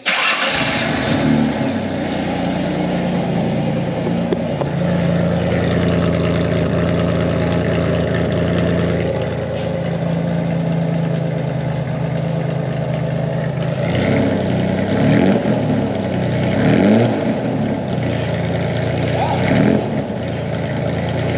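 Straight-piped 1993 Ford Ranger exhaust with the muffler deleted. The engine comes in suddenly and runs at a steady idle, then is revved several times, rising and falling, in the last third.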